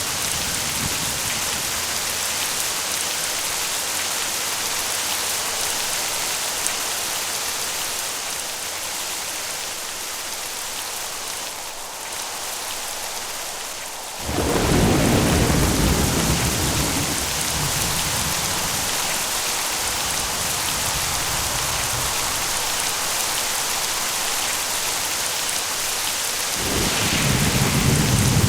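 Steady heavy rain hissing, with a loud roll of thunder breaking in suddenly about halfway and rumbling on, then another roll of thunder building near the end.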